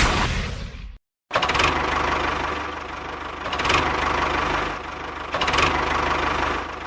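Small engine running steadily, swelling in loudness about every two seconds. It cuts off abruptly to silence about a second in, then resumes.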